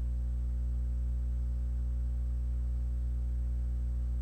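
A steady low hum, like electrical mains hum, with several fainter steady tones stacked above it, unchanging throughout.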